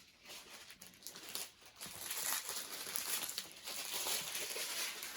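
Plastic packaging crinkling as it is handled, faint at first and louder from about two seconds in.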